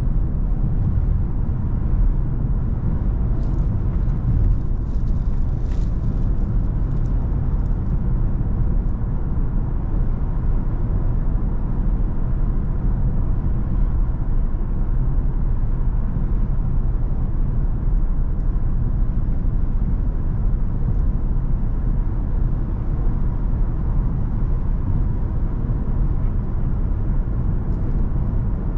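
Cadillac CTS 3.6 twin-turbo V6 car cruising steadily: a constant low rumble of engine and road noise with no revving.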